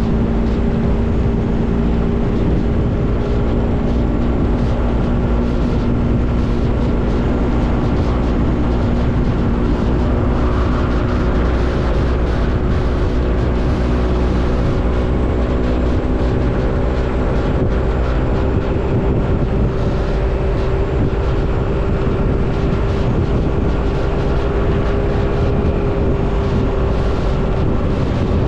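Motorcycle engine running at a steady pitch while riding, over a strong low rumble of wind and road noise on the action-camera microphone.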